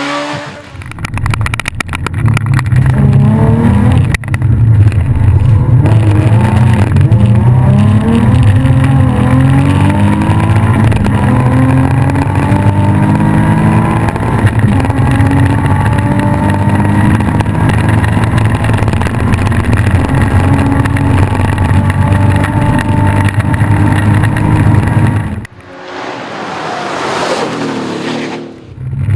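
Rally car engine at hard throttle, loud and close, its pitch climbing and dropping again and again through gear changes and lifts. Near the end it cuts off suddenly, and a car rushes past, swelling and fading.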